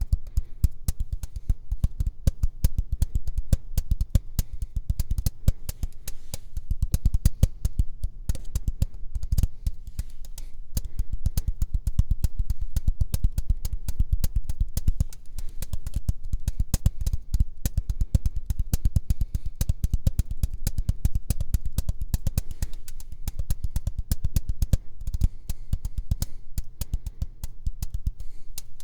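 Rapid, layered ASMR tapping: a fast, unbroken run of sharp taps with a heavy, thudding low end, close to the microphone.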